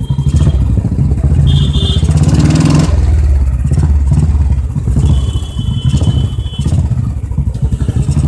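Royal Enfield motorcycle engine running with a loud exhaust thump, picking up revs about two and a half seconds in. Short high steady tones sound twice over the engine.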